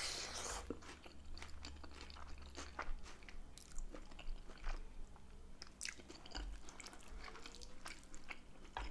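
A person chewing a mouthful of spaghetti bolognese with raw chopped onion, close to the microphone: scattered wet mouth clicks and light crunching.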